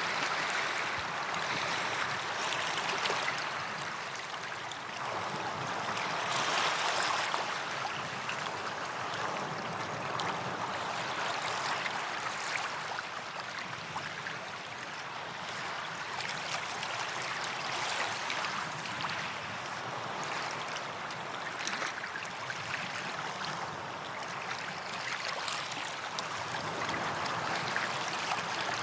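Small waves washing onto a sandy beach and running back, a continuous wash that swells every few seconds.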